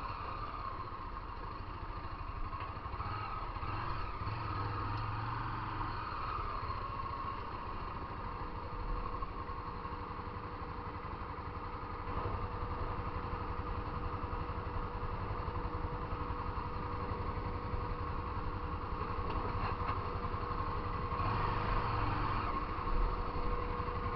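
Motorcycle engine running steadily while riding in traffic, with a steady low rumble and a constant whine. It gets slightly louder about halfway through and again near the end.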